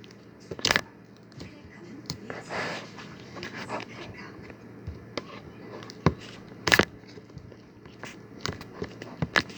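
Whipped-cream slime being squeezed and pulled by hand, giving scattered sharp sticky pops and clicks, the loudest about six and seven seconds in.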